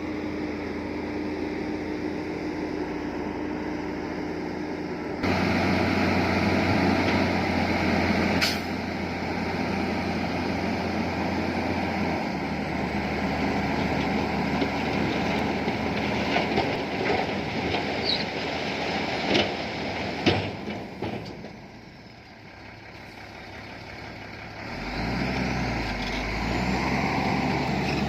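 Heavy diesel earthmoving machinery running, a bulldozer and dump trucks at work. There are a few sharp knocks through the middle. The sound changes abruptly about five seconds in, dips shortly after the middle, and a deep engine rumble comes back near the end.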